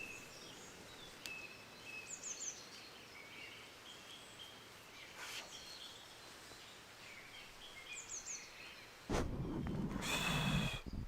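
Faint dawn birdsong: scattered chirps and quick high trills of a few notes. About nine seconds in, a louder rustling noise starts and carries on.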